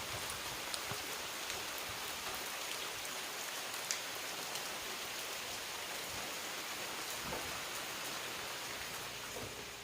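Steady rain falling, an even hiss with scattered drips ticking on surfaces; one drip about four seconds in is sharper than the rest. The rain eases slightly near the end.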